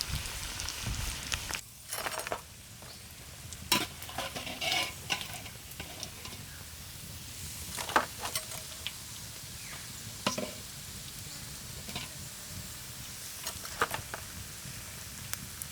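Frog pieces frying in hot oil, sizzling steadily, with scattered clinks and scrapes of a utensil against the pan.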